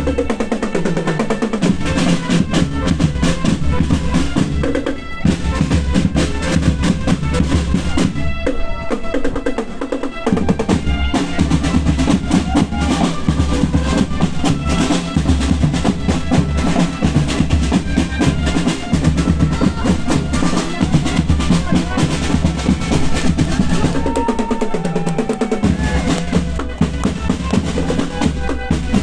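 Marching band playing, led by its drumline: snare drum rolls over steady bass drum beats, with no pause.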